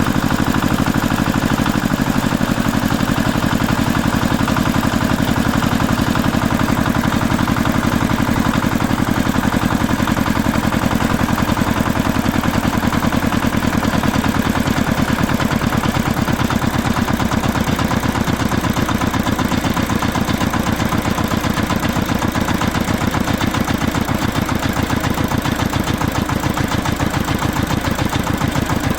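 A vehicle engine running steadily at idle with a fast, even pulse.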